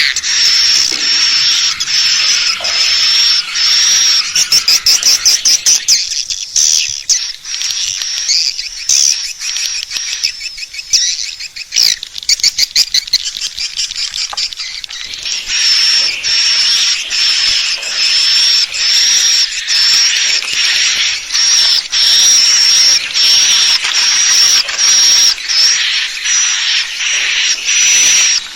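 Swiftlet call recording used as a lure to attract edible-nest swiftlets: rapid twittering chirps repeated over and over, each topped by a thin high whistle. Partway through, the chirps give way to fast, rattling clicking trills before the twittering resumes.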